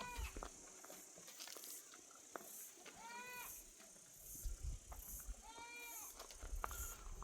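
Goat bleating: three short bleats about three seconds apart, each rising then falling in pitch.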